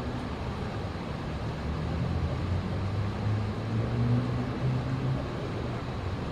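Steady low rumble of distant road traffic, with the hum of engines rising and fading.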